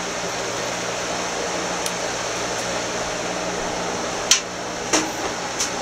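Steady room noise, a hiss like a fan running, with three sharp clicks or knocks in the second half, the first the loudest.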